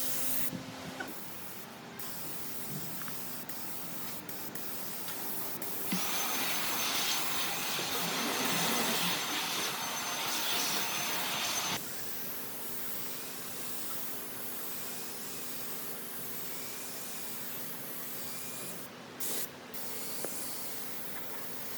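Steady hissing noise. A louder hiss starts about six seconds in and stops abruptly about six seconds later.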